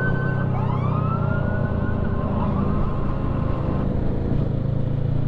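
A police-style siren wailing in repeated rising sweeps over the steady low rumble of an idling motorcycle engine.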